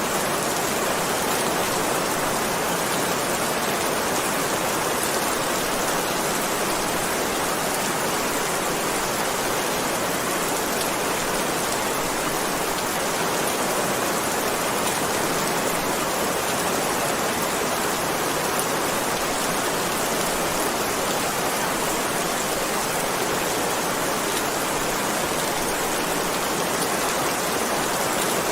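Heavy rain falling steadily, a dense even hiss with no individual drops standing out.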